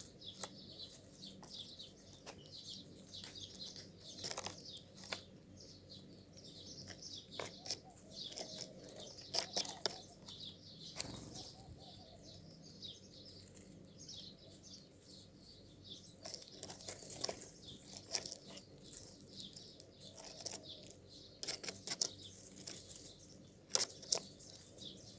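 Small birds chirping and twittering continuously in many short, high calls, with scattered brief rustles among them.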